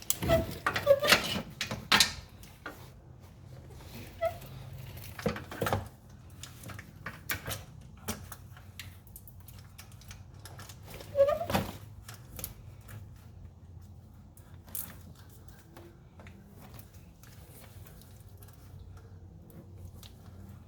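Scattered metallic clicks, clinks and knocks as tools are handled during an oil change. They come in a cluster in the first two seconds, again around four to six seconds in and once more about eleven seconds in, over a faint steady low hum.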